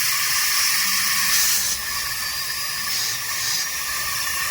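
Compressed-air blow gun hissing steadily as shop air is forced into the engine-oil passage of a Mahindra KUV100's oil cooler, a pressure test for a leak into the coolant side. The hiss eases a little under two seconds in.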